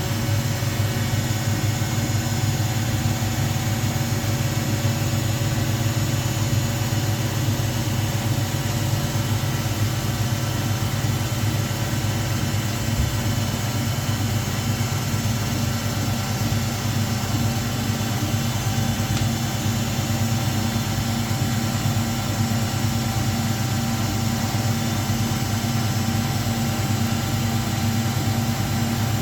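Front-loading washing machines with the drum spinning at speed: a loud, unbroken motor hum with several steady tones above it, holding constant without the stop-and-reverse pauses of a wash tumble.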